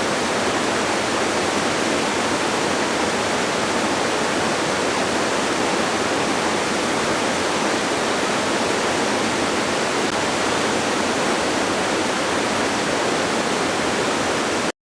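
Distant waterfall: a steady, even rush of falling water that cuts off suddenly near the end.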